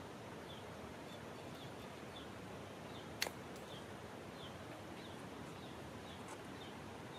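A small bird calling a short high chirp over and over, about twice a second, each note dropping slightly in pitch, over a steady outdoor hiss. One sharp click about three seconds in.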